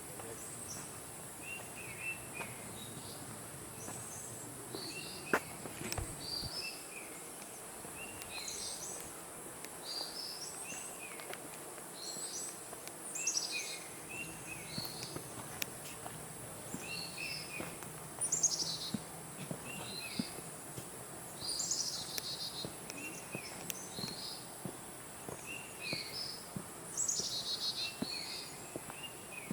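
Forest birds chirping repeatedly: many short, quick calls, some rising and some falling in pitch, over a steady high-pitched hiss.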